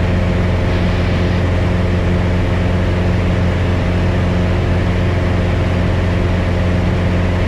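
Piper Cherokee 180's four-cylinder Lycoming engine and propeller droning steadily in flight, heard inside the cabin. The new engine is being run at full power, 2,700 RPM, to break it in.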